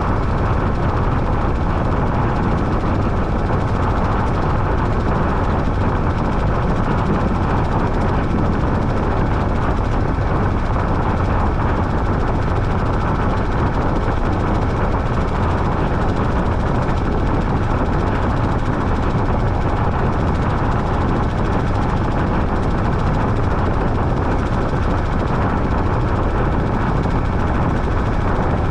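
Washing machine running with a loud, steady whirring noise, deep and even, with no pause or change.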